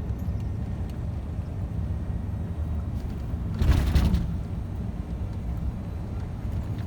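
Scania truck running on the road, heard as a steady low engine and road rumble from the cab. About three and a half seconds in, a brief loud whoosh with a falling pitch, like a vehicle rushing past.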